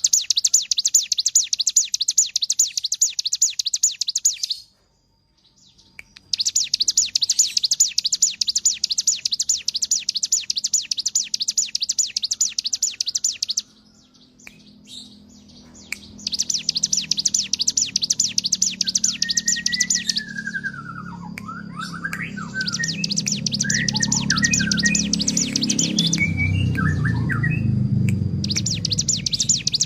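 A ciblek gunung (a prinia) singing in long runs of very rapid, high, buzzy chirps, each lasting about three to seven seconds, separated by short pauses. In the second half, lower sliding whistled notes and a low rumble come in between and under the runs.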